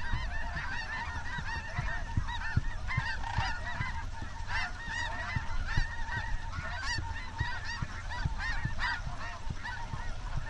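A large flock of snow geese calling at once: a constant, overlapping din of high, short honks as the birds circle low over the decoys.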